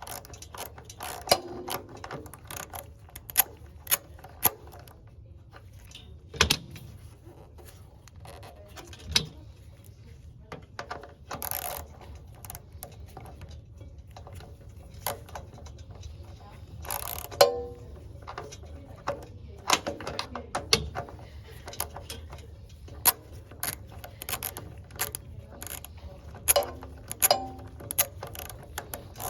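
Hand tools and metal parts clicking and clinking irregularly while a water heater's pilot assembly is taken apart, some knocks ringing briefly, over a steady low hum.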